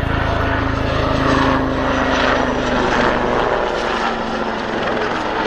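Westland Super Lynx helicopter passing at speed: its rotor and turbine noise is loud and steady, with a tone that sinks slightly in pitch as it goes by. The deep rotor rumble drops away about three and a half seconds in.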